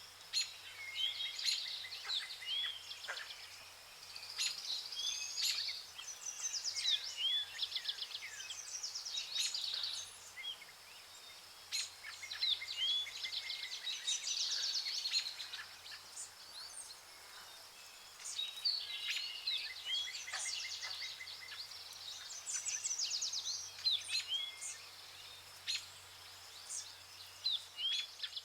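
Several birds calling, with many short rising and falling chirps and rapid trills throughout, over a steady high drone in the background.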